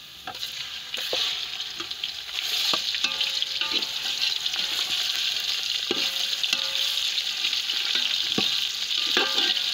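Raw chicken pieces sizzling in hot oil with fried onions in a metal pot, the frying hiss getting louder about two seconds in as the chicken goes into the oil. A metal spoon scrapes and knocks against the pot as the pieces are stirred.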